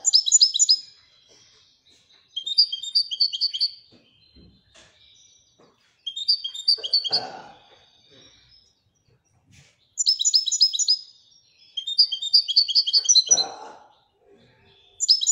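Moroccan goldfinch singing in the 'Widania' song style: repeated phrases of rapid, twittering trills about a second or two long, with short pauses between them.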